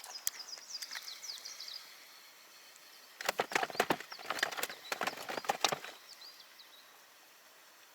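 A small bird singing a quick series of high chirps, joined about three seconds in by a couple of seconds of sharp clattering knocks and rattles.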